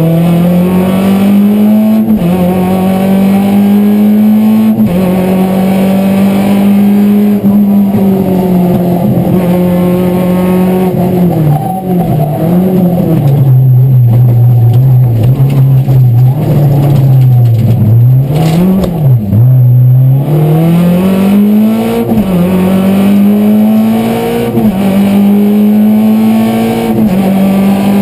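Renault Clio Ragnotti's four-cylinder engine at full throttle, heard from inside the cockpit. It revs up with quick upshifts about two and five seconds in, then falls in pitch under braking and downshifts through the middle with short rev blips. It climbs again through further upshifts near the end.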